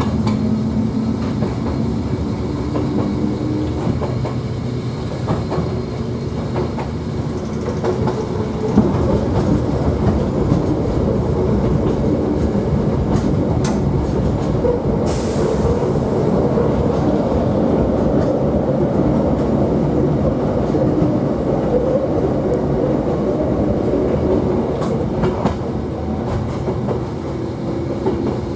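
Hakone Tozan Railway electric train running along the line, heard from inside the car: a steady rumble of wheels on rails with scattered clicks. About halfway through there is a short burst of hiss, followed by a faint high-pitched whine lasting several seconds.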